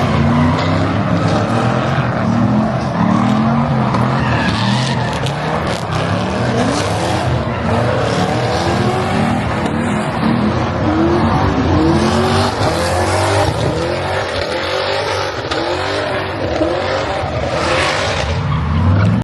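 Car engines revving hard and tires squealing as cars do burnouts and donuts, the engine pitch rising and falling over and over.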